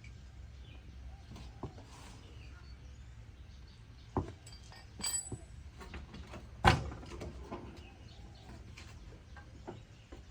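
Scattered clicks and knocks of tools and parts handled on metal. There is a ringing metallic clink about five seconds in and a sharp knock just after, the loudest sound here.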